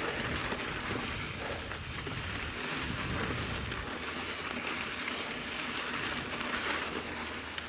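Wind buffeting the microphone over a mountain bike rolling along a loose, sandy dirt trail: a steady rushing noise with no distinct knocks.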